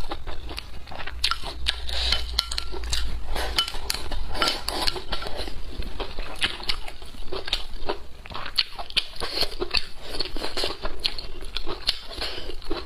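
Close-miked chewing of stir-fried chili peppers and rice: a constant run of wet, crackly mouth clicks and crunches, with an occasional clink of chopsticks on the bowl.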